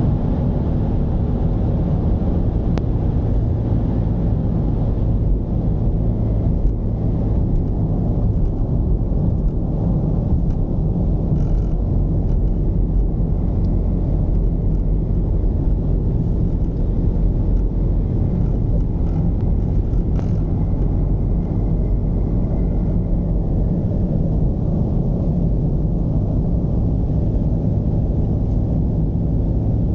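Mercedes-Benz V220 diesel engine and road noise while driving, a steady low rumble with an even engine hum and no marked revving.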